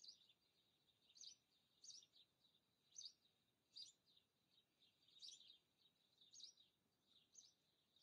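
Faint bird chirping: short high chirps repeated about once a second.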